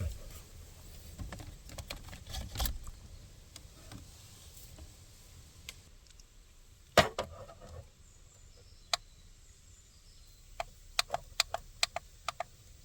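Scattered knocks and clicks: a few soft ones at first, one loud knock about seven seconds in, then a quick run of sharp clicks near the end.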